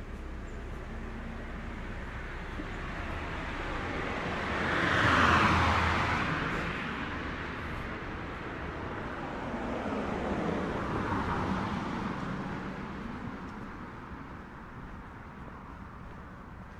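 Road traffic on a city street: a vehicle drives past close by, loudest about five seconds in, its pitch dropping as it goes by. A second vehicle passes more softly around eleven seconds in, and then the traffic noise fades.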